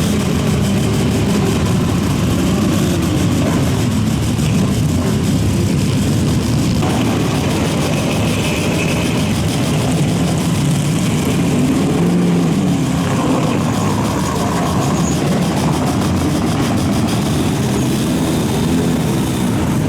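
Several Group N racing-car engines running together on a starting grid, idling with throttle blips that make the engine note rise and fall a few times.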